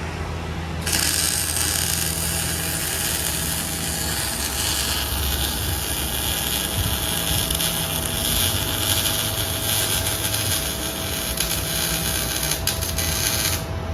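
A power tool runs with a steady high hiss, starting about a second in and cutting off sharply near the end, while the exhaust is worked on for a muffler and resonator delete.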